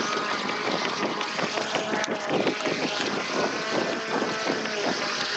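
Small gas engines of lawn-care equipment running steadily, with jogging footsteps knocking regularly and wind on the microphone.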